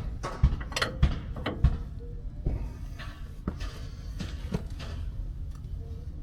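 Hand tools working on the truck's front-end hardware: a run of sharp metallic knocks and clicks about half a second apart for the first two seconds, then scattered lighter clicks.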